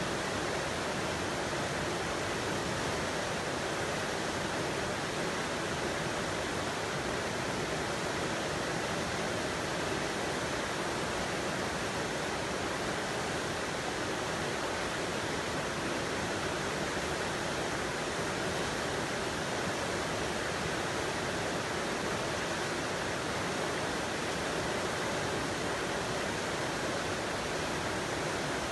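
Steady, unchanging rushing noise with no distinct events.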